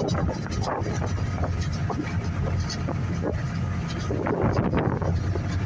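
Passenger ferry's engines running steadily under way, with wind gusting on the microphone.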